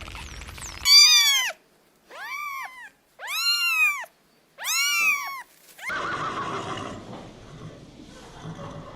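A cat meowing four times, each meow rising then falling in pitch, the first the loudest. A steady background noise follows in the last few seconds.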